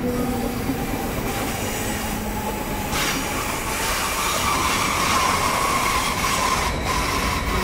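Stadler RABe 512 double-deck electric multiple unit rolling past: a steady rumble of wheels on rail, with a brief clatter about three seconds in. A high, steady squealing tone comes in about halfway through.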